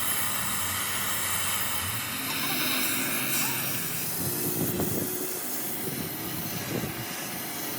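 A steady hiss, with faint voices in the background around the middle.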